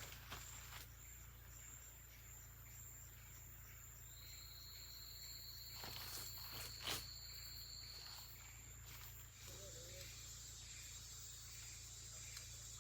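Quiet rainforest ambience: insects keep up a steady high buzz, and another high, steady call holds for about four seconds in the middle. Two sharp snaps, like footsteps on twigs, fall around the middle, and faint repeated chirps come near the end.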